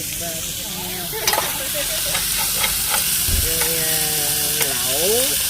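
Food sizzling as it cooks, with a steady hiss, while a utensil clicks against the cookware a few times as it is stirred.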